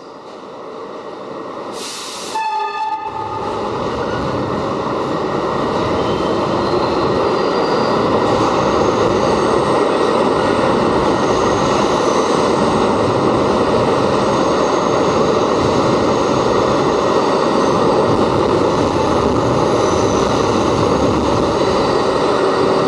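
New York City subway train running, growing louder over the first several seconds and then holding steady. A short horn blast sounds about two seconds in.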